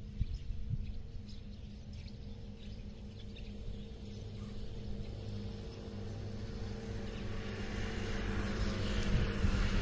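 Outdoor ambience dominated by a low, steady engine hum that grows louder toward the end, with wind noise rising on the microphone. There are a few faint bird chirps at first.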